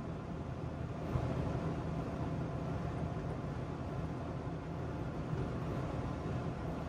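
Trabant 601's two-cylinder two-stroke engine running steadily under way, heard from inside the car with a steady hiss of road noise. It gets a little louder about a second in.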